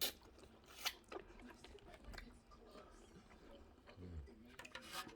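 Close-up eating sounds from a seafood meal: quiet chewing with a few sharp cracks and clicks, and a short low hum about four seconds in.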